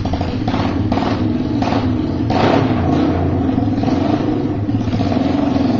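1971 Honda CL350's 350 cc parallel-twin engine running after firing up, with several quick surges in the first couple of seconds before settling into a steady run.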